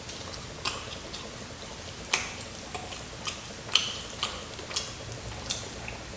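Crispy fried chicken crunching as it is chewed close to the microphone: a string of sharp, separate crunches, roughly two a second.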